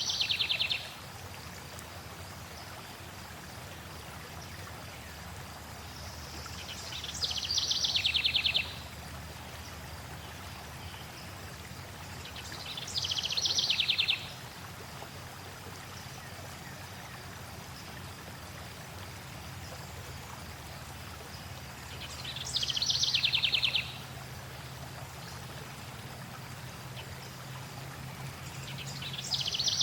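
A songbird repeating the same short song again and again, a high opening that drops into a fast, falling trill and stops abruptly, every six to nine seconds. Under it runs a steady rush of flowing water.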